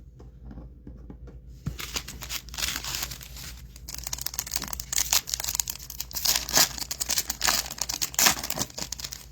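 Foil trading-card pack being torn open and its wrapper crinkled: a dense run of tearing and crinkling that starts about a second and a half in.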